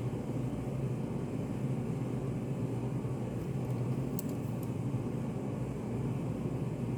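Steady low rumbling background noise of a study café, with a few faint clicks about four seconds in.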